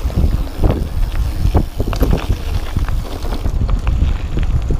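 Wind buffeting the microphone with a heavy low rumble while a mountain bike rattles and knocks irregularly over rough ground on a fast downhill descent.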